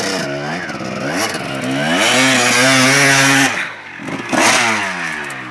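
Motocross bike engines revving: the pitch climbs and holds a high, steady note for over a second, drops sharply about three and a half seconds in, then falls away again after a brief loud moment.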